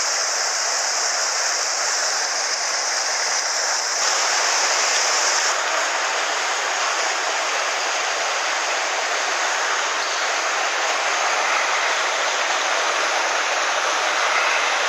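Steady rush of a mountain headwater stream, water running over rocks; its tone shifts abruptly about four and five seconds in.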